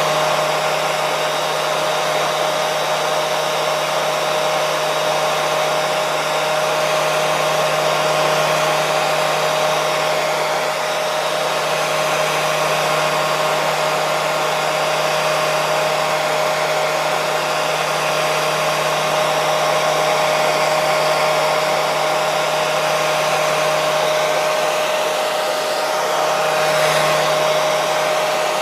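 Electric hair dryer running steadily: a continuous rush of air with a constant motor hum, wavering slightly near the end.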